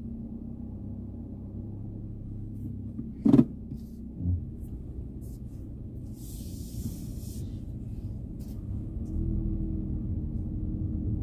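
Car running with a steady low rumble. There is a sharp knock about three seconds in, a brief hiss around six seconds, and the engine note steadies and grows a little louder near the end.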